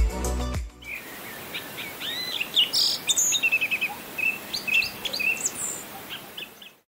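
Music ending within the first second, then small birds chirping and singing over a faint steady hiss, with short high calls and trills that cut off suddenly near the end.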